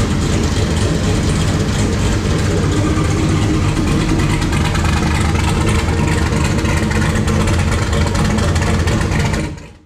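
Turbocharged LS V8 in a NASCAR stock car running steadily, then cutting off abruptly near the end.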